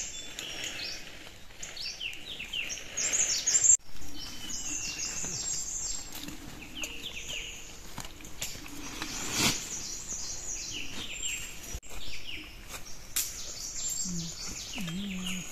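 Small birds chirping over and over, quick high chirps that fall in pitch, over a faint steady background hiss. A single sharp click sounds about halfway through.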